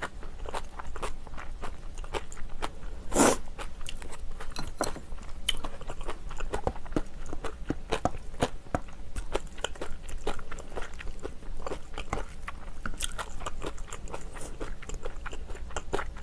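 A person chewing and crunching food close to the microphone, with a steady run of small clicks and crackles and one louder knock about three seconds in.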